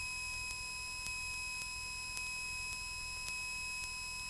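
Steady high-pitched electrical whine of several pure tones over a low engine rumble, as heard on a Cessna 172's cockpit intercom feed with the engine at idle.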